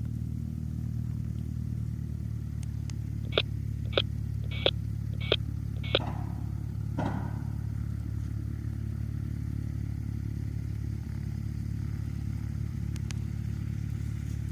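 Cessna 172's piston engine droning steadily, heard from the cabin. Five quick, sharp clicks come a little over half a second apart, about three to six seconds in.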